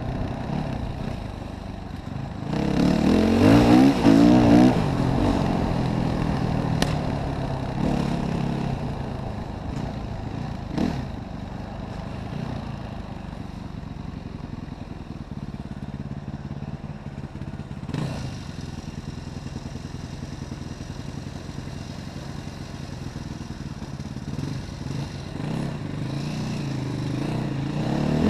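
Enduro dirt bike engine revving hard about three seconds in, then running at lower revs with the throttle rising and falling. A few sharp knocks sound along the way, and the revs climb again near the end.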